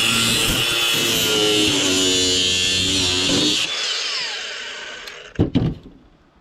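Power tool's cut-off wheel cutting through scrap metal, a loud high whine with harsh grinding noise; a little over three and a half seconds in, it is let off and the whine falls away as the wheel spins down. Near the end come a couple of sharp knocks.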